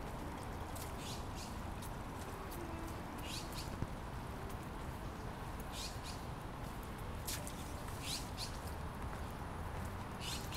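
A bird chirping several times, short high calls a couple of seconds apart, over steady background noise.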